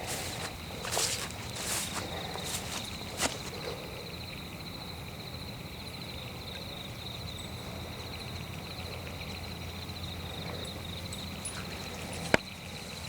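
Footsteps on the forest floor for the first few seconds, then stopping, over a steady high trill of crickets at night. A single sharp snap near the end.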